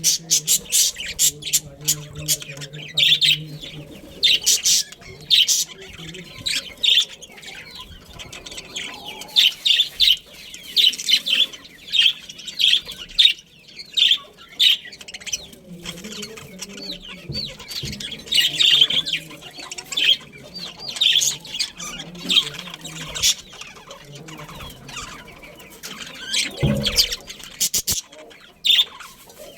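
A flock of budgerigars chirping and chattering continuously, many short high chirps overlapping.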